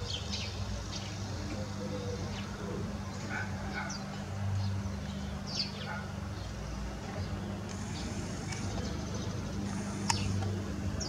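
Outdoor ambience: small birds chirping now and then over a steady low hum, with a sharp click about ten seconds in.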